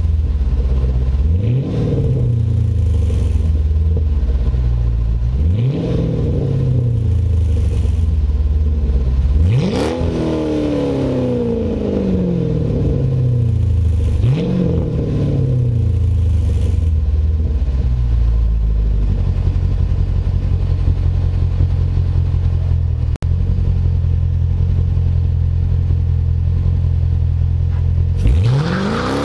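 2006 Dodge Charger Daytona's 5.7-litre Hemi V8 breathing through straight pipes and Magnaflow resonators, revved in four quick throttle blips that each rise sharply and fall back, the strongest about ten seconds in. It then settles to a steady idle for about ten seconds before one more sharp rev near the end.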